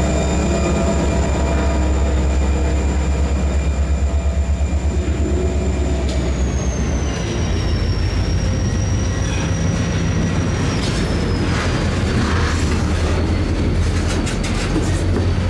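Covered hopper cars of a slow freight train rolling past at street level: a steady low rumble of wheels on rail, with a thin high squeal that slides lower in pitch about halfway through, and wheels clacking over rail joints in the later part.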